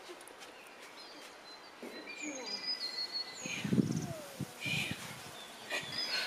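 Small birds chirping and singing in short, thin whistled phrases over a steady outdoor background, with a brief low rumble and a few knocks about three and a half seconds in.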